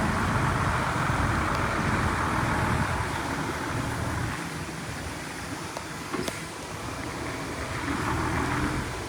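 Heavy diesel machine engine running. It eases off in the middle and builds again near the end, with one sharp click about six seconds in.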